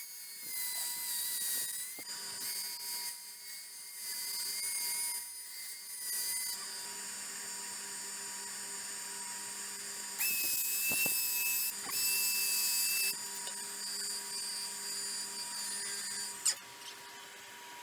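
Abrasive paper sanding a spinning walnut, pecan-shell and epoxy-resin bowl on a wood lathe: a steady high hiss over the lathe motor's whine. The sanding grows louder in two stretches about ten and twelve seconds in.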